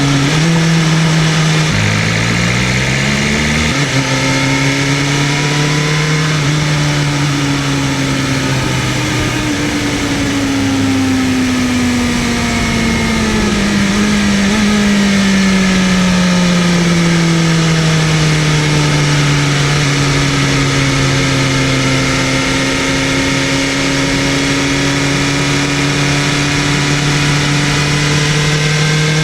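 BMW M1000RR's inline-four engine running under way: the revs climb in quick steps through gear changes in the first few seconds, then hold, ease down slowly and settle at a steady cruise, with wind and road rush underneath.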